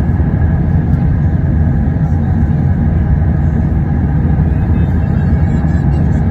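Airbus A380 airliner during its landing: a steady, loud, low rumble with no distinct bangs or changes.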